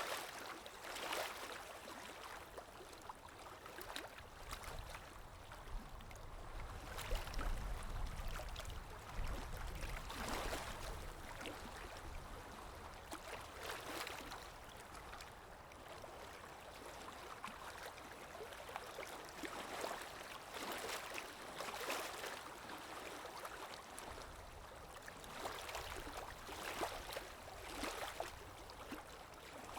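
Underwater ambience: a continuous wash of moving water with bubbling surges every few seconds, and a low rumble for several seconds around the middle.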